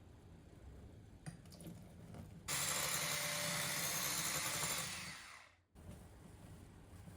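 A small electric kitchen appliance motor switched on with a click, running steadily and loudly for about two and a half seconds, then winding down and stopping.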